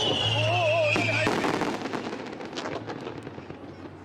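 Aerial fireworks bursting: a high whistle falling in pitch in the first second, then a quick run of sharp bangs and crackles.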